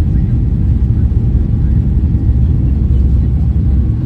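Inside a passenger airliner's cabin: a loud, steady low rumble of the engines and rushing air.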